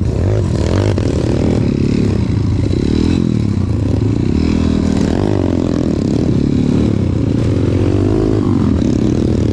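Trail motorcycle engine running, its revs rising and falling over and over as it is ridden.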